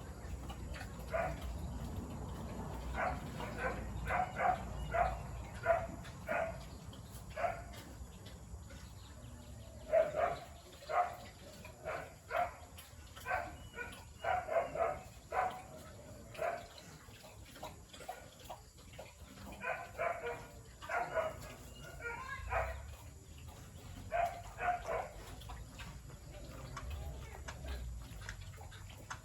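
Short animal calls repeated in clusters, several a second at times, with brief pauses between the clusters.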